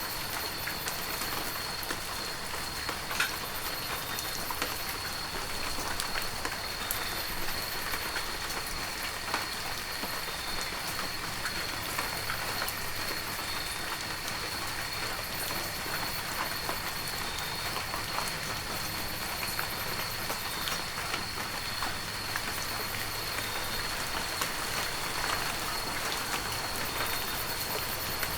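Heavy rain falling steadily, with sharp ticks of close drops scattered all through, over a thin steady high tone.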